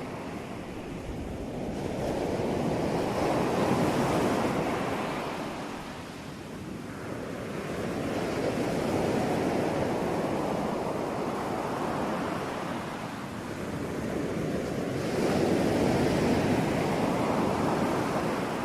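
Ocean surf: waves breaking and washing in, the roar swelling and fading in three slow surges.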